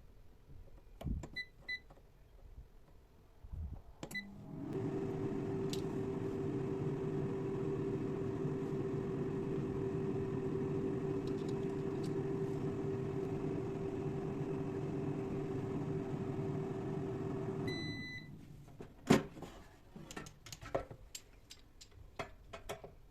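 A kitchen appliance being set with a few short keypad beeps, then running with a steady humming drone for about thirteen seconds, which ends with a beep. A few clicks and knocks follow.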